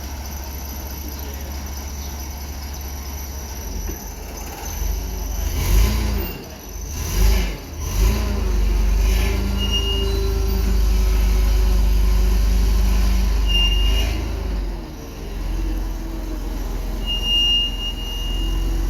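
A vehicle engine running, picking up about four seconds in with uneven surges, holding steady and loud for several seconds, then easing off near the end. A few short, high squeals come over it.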